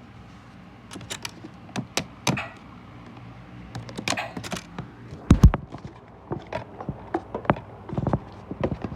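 Washing machine with a steady low hum under irregular clicks and knocks, and one heavy thump about halfway through.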